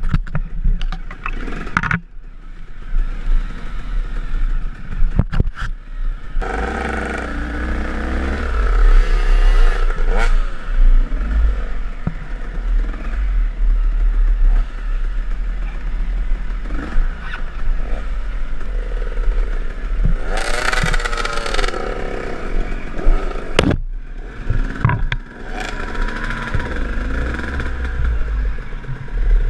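KTM enduro dirt bike engine running on a trail ride, its pitch rising and falling with the throttle, with knocks and rattles scattered through.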